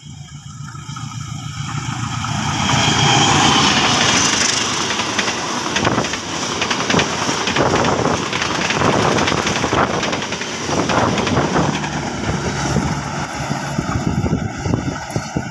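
Passenger train hauled by a CC 201 diesel-electric locomotive passing at speed: the sound builds as the locomotive approaches, then the carriages' wheels clatter over the rails in rapid knocks as they go by, easing slightly as the train moves away near the end.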